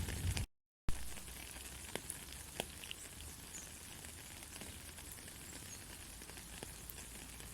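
Steady light rain with a few sharper drop clicks. About half a second in, the sound cuts out completely for a moment. It returns a little quieter, with less low rumble.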